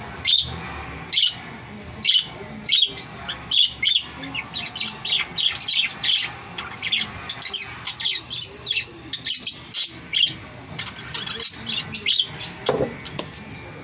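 A flock of African lovebirds calling: a continuous run of short, shrill chirps and squawks, several a second and overlapping.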